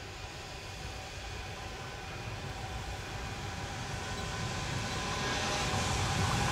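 A train approaching, its rumble growing steadily louder, with a steady whine of several tones over it.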